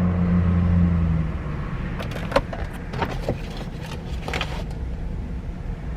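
Car engine idling: a steady low hum that turns into a rougher, lower rumble about a second in, with a few light clicks and taps.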